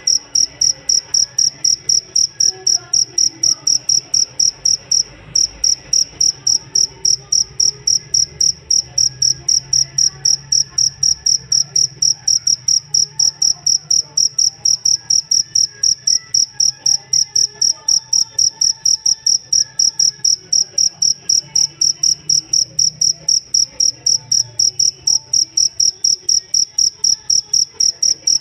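Cricket chirping: a high, single-pitched chirp repeated at an even, rapid rhythm, several times a second, with one brief pause about five seconds in.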